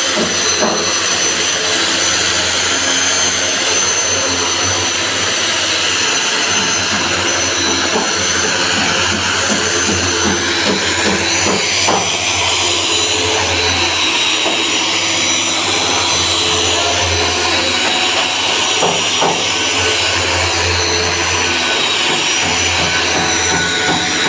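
Power sander running steadily against the wood of a large log: a loud, even hiss with a steady high whine.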